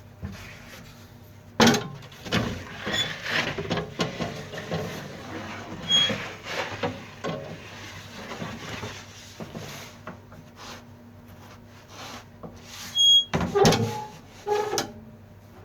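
Handling noise: a run of knocks, clatters and scrapes, with a sharp knock about a second and a half in and another cluster of knocks near the end, plus a couple of brief squeaks.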